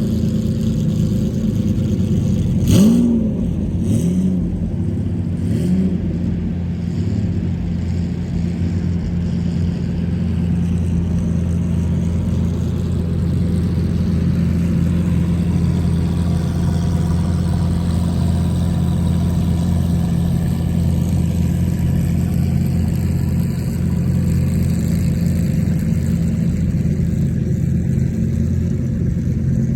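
Car engine idling steadily, with a few quick revs about three seconds in.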